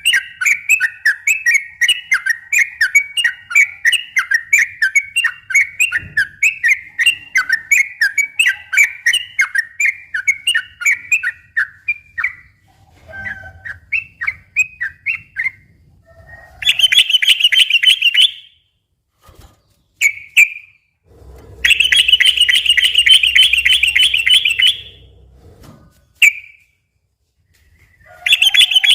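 Yellow-vented bulbul (trucukan) singing: a run of quick whistled notes, a few a second, for about twelve seconds, then long rapid rattling trills ("ropel") that come three times, the longest about three seconds.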